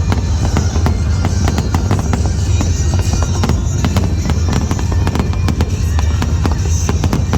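A fireworks display: many shells bursting and crackling in quick succession, with music playing underneath.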